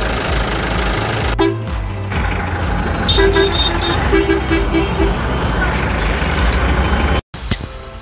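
A vehicle engine running steadily, with a horn sounding a quick run of short toots for about two seconds, starting about three seconds in. The sound cuts out abruptly near the end.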